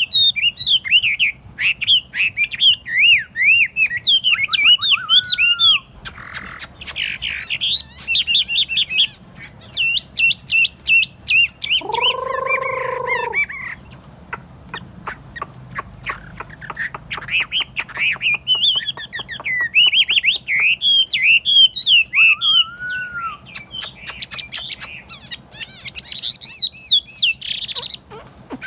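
Chinese hwamei (họa mi) singing in long runs of fast, varied whistled phrases that slide up and down, broken by short pauses. About twelve seconds in there is a lower, drawn-out note of a second and a half.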